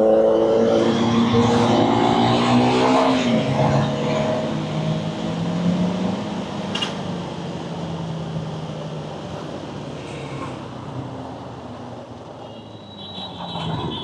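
Motorcycle engine revving up through a gear, its note rising for about three seconds before dropping at the shift. It then runs at a lower, steadier note that gradually fades as the bike eases off.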